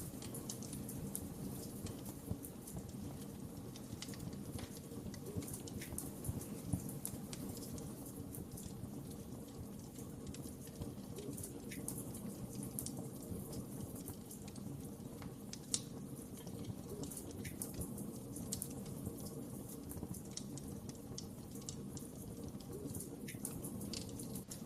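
Wood fire crackling: a steady low rush with frequent sharp pops and snaps, two of them louder, about seven and sixteen seconds in.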